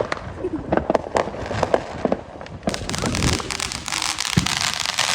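Fireworks going off all around: a scatter of sharp bangs, then from about halfway a dense, continuous crackling.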